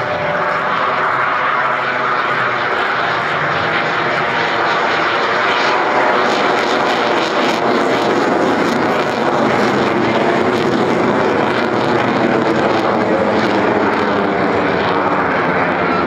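Jet noise from the HAL Tejas LCA's single GE F404 turbofan as the fighter flies overhead, loud and steady, growing slightly louder over the first few seconds.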